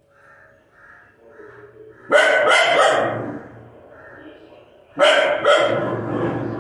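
Puppy barking in two bursts of two or three quick barks, about three seconds apart, with faint short calls in between.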